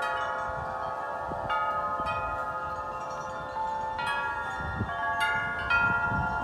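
Wind chimes ringing in strong, gusty wind: the tubes are struck again and again, about a dozen times, so that several long-ringing tones overlap into a shimmering cluster. A faint low rumble of wind sits underneath.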